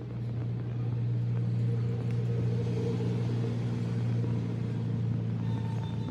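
An engine running with a steady low hum, a little louder just after the start and easing off near the end.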